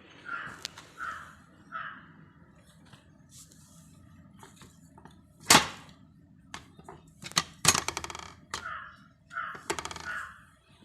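Scattered metallic clinks and knocks, as of hard metal objects being set down or handled. The loudest comes about five and a half seconds in, with a quick cluster around seven to eight seconds.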